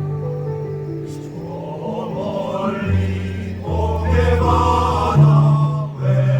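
Choir singing over low, held accompaniment notes; the voices come in about two seconds in and swell fullest around the middle before easing off.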